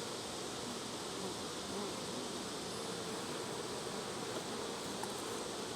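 Honeybees buzzing steadily around an opened hive.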